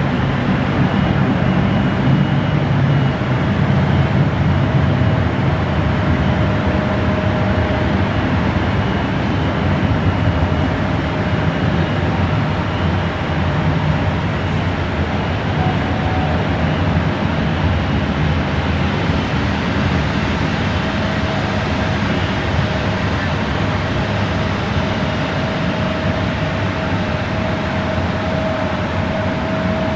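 Jet airliner engine noise: a loud, steady rumble and rush, with a faint whine that grows after about twenty seconds.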